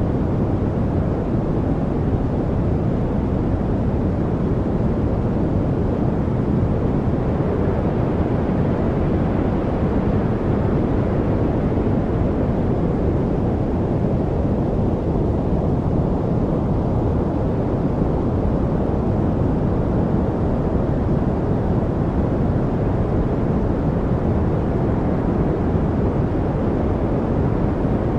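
Steady, deep rumbling noise of a study noise track, darker than hiss, like brown noise. It stays even throughout, with only slight slow swells in its upper part and no birdsong or trickling water standing out.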